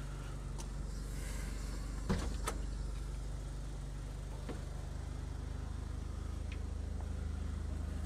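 Mitsubishi Eclipse GS-T's turbocharged 2.0-litre 16-valve four-cylinder idling steadily, with two sharp knocks about two seconds in.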